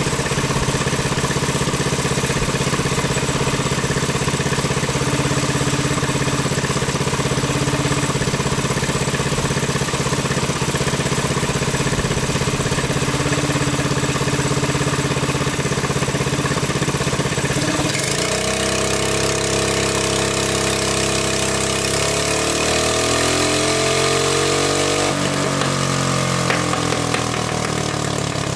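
Honda GX200 single-cylinder four-stroke engine running on a dynamometer, steady for most of the time. About two-thirds of the way through, its sound changes, and its pitch rises and then falls again over several seconds.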